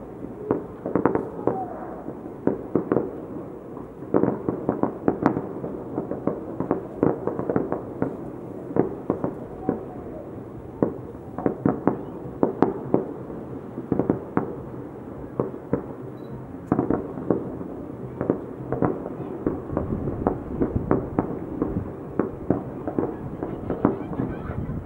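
Fireworks salute going off: a dense, irregular barrage of sharp bangs, several a second, over a low rumble.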